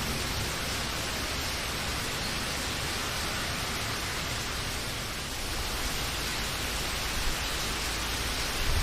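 Steady rain: an even hiss with no single drops or other events standing out.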